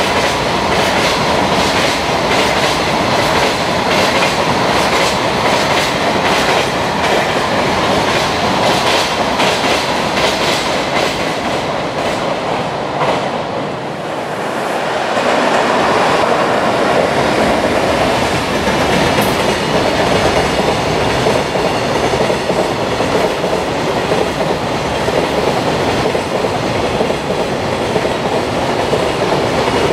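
Freight trains running past on slab track, the wheels clacking rhythmically over the rail joints under a steady rumble. The sound dips briefly near the middle, then another freight train carries on just as loud.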